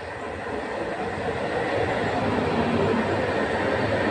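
Electric multiple unit passenger train running in alongside the platform, its running noise growing steadily louder as it draws near.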